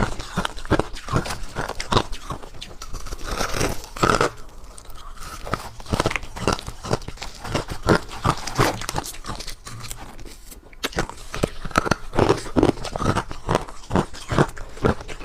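Close-miked crunching of ice being bitten and chewed: a fast run of sharp crunches, a few each second, with a short lull about two-thirds of the way through.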